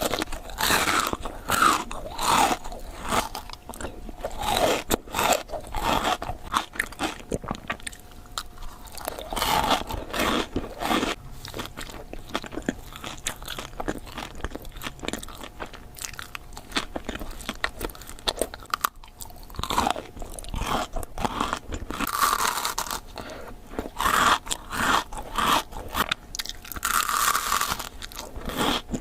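Close-miked biting and chewing of a Dubai chocolate bar, whose toasted kataifi and pistachio filling crunches loudly with every bite, in a rapid, uneven run of crackles.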